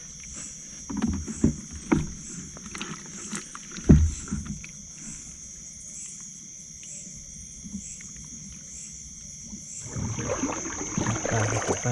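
Knocks and thumps against a small boat, the loudest about four seconds in, while a hook line is hauled in, with water splashing from about ten seconds in. A steady high drone of insects runs underneath.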